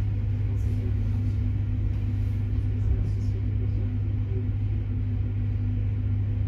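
Steady low rumble and hum inside the passenger cabin of a Bombardier Régio2N electric multiple unit as it rolls along the track, with a fainter, higher steady hum above the low one.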